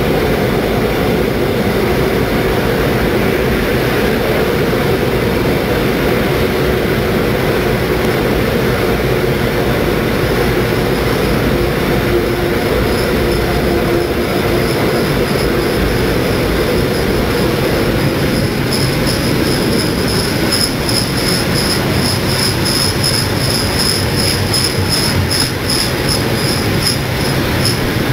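Heritage steam-hauled train running on the rails, with a steady loud rumble. From about ten seconds in, a high wheel squeal joins, and in the last third it pulses rapidly.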